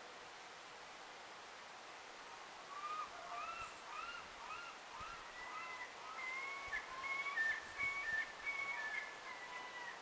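A bird singing a whistled song, starting about three seconds in: a quick run of about six rising-and-falling notes, then several longer, flatter whistles.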